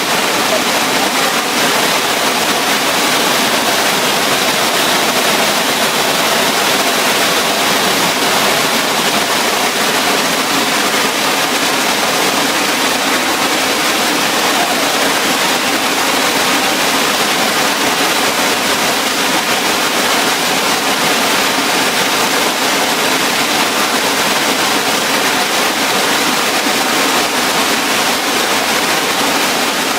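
Steady, loud rush of a waterfall pouring over a weir-like rock step, close by.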